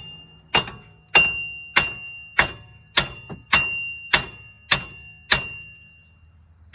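Hammer blows on steel, about one and a half a second, each with a short metallic ring, knocking a rear wheel hub loose from its mounting. The blows pause for over a second near the end, then one more lands.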